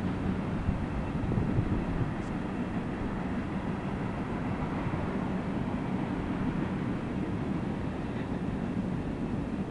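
Freight train cars rolling past at a distance, a steady low rumble.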